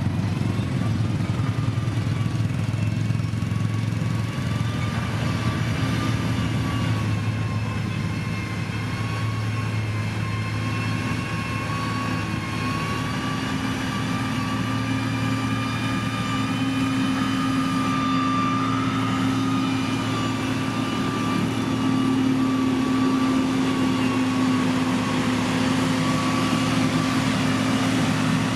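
Heavy construction machine's diesel engine running steadily under load, with a thin high whine wavering slightly in pitch above the engine drone.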